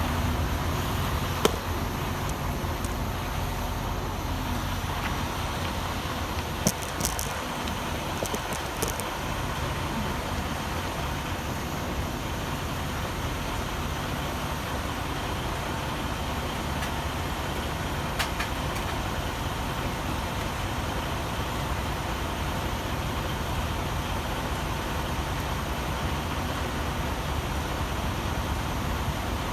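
A semi truck's engine running steadily, a constant rumble with a few brief clicks and knocks scattered through it.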